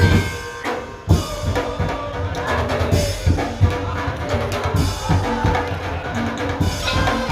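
Madurese ul daul (tong-tong) percussion ensemble playing loud, driving rhythmic music: heavy drums and bass drum under tuned metal percussion. The music thins out briefly about half a second in and comes back with a hard drum hit just after a second.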